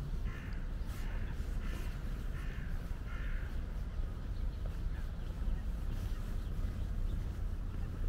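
A bird calling repeatedly, about five raspy calls in quick succession over the first three and a half seconds, over a steady low rumble.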